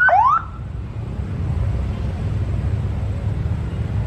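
Steady low rumble of aircraft engines at an airfield. Right at the start, two quick rising chirps cut across it.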